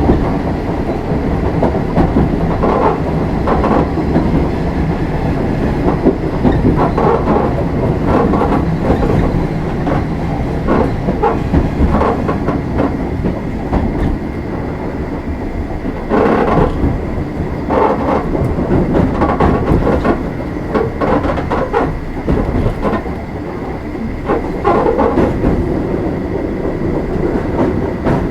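Running sound inside an Oigawa Railway 16000 series electric multiple unit, a former Kintetsu limited-express car, travelling at speed: a steady rumble of wheels and running gear, with repeated clatter as the wheels pass over rail joints.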